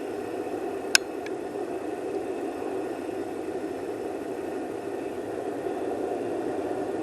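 Campfire burning with a steady low rush of flames, and a sharp pop of burning wood about a second in, followed by a fainter one.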